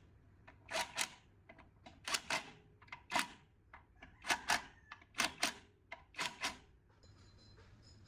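Sharp clicks and taps in quick clusters of two to four, about one cluster a second, stopping about seven seconds in.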